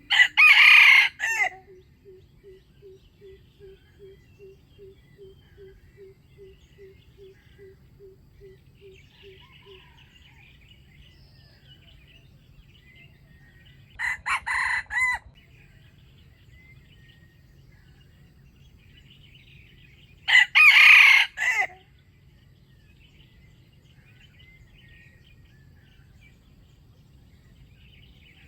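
Wild junglefowl rooster crowing three times, each a short crow of about a second and a half: one right at the start, a fainter one about 14 seconds in, and a loud one about 20 seconds in. After the first crow a low soft clucking note repeats about three times a second for some eight seconds, with faint small-bird chirps underneath.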